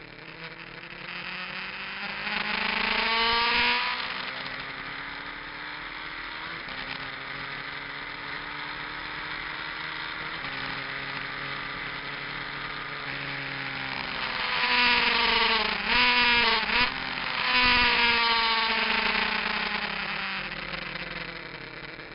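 Motorcycle engine heard from an onboard camera at speed on a race circuit. The engine note steps in pitch with gear changes. There are two louder swells in which the note rises and then falls: a short one about three seconds in, and a longer one from about fourteen to twenty seconds in.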